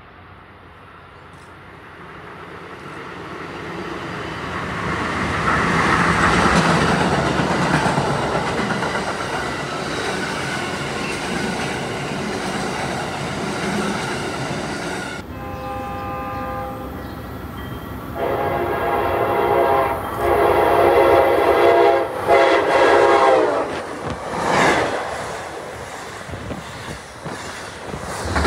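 Amtrak passenger train with Amfleet coaches passing at speed: rail and wheel noise builds to a peak about six seconds in and carries on as the cars go by. From about halfway, a multi-tone train air horn sounds in four blasts, the first the longest, then the noise fades.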